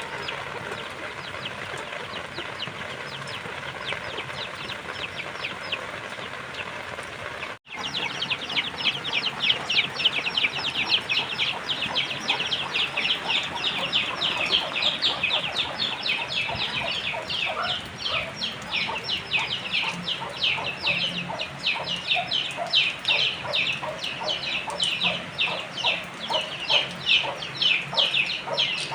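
Chickens clucking in rapid, overlapping calls. The sound cuts out briefly about eight seconds in, then returns louder and denser.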